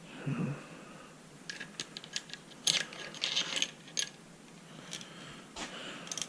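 Saw chain rattling and clicking as it is handled and fitted around a chainsaw bar, in irregular clusters of small metallic clicks.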